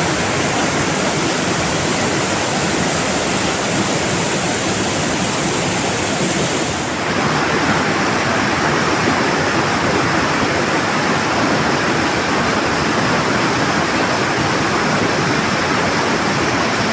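Loud, steady rushing water, its tone shifting slightly about seven seconds in.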